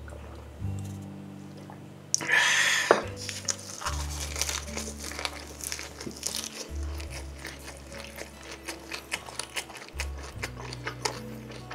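Close-miked chewing and crunching of a perilla-leaf wrap of grilled pork skin, heard as a rapid run of small wet clicks, over background music with a steady bass line. There is a loud burst of noise about two seconds in.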